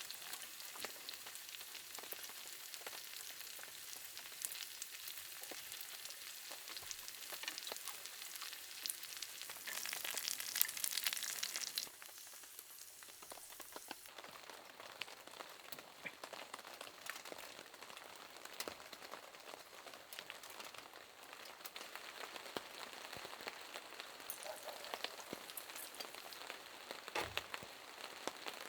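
Food sizzling and crackling in a pan for about the first twelve seconds, stopping abruptly. After that, rain patters steadily with scattered individual drips.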